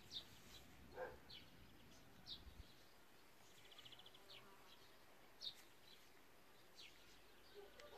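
Faint outdoor ambience with small birds chirping: short high chirps about once a second, and a quick trill of about ten rapid notes a little past the middle.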